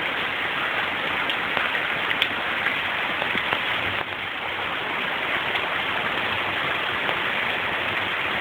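Heavy rain pouring down in a steady hiss, with scattered faint drop ticks.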